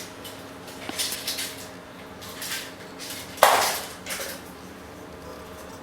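Metal tools being handled: a few short clinks and rattles, with one louder clatter about three and a half seconds in.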